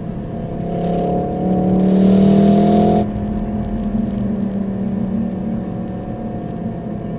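Car engine accelerating hard, its pitch climbing and getting louder, then dropping back abruptly about three seconds in and running on steadily.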